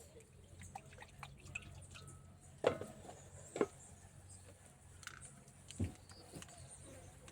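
A few scattered light knocks and taps of kitchen containers and utensils being handled, several seconds apart, over a low steady hum.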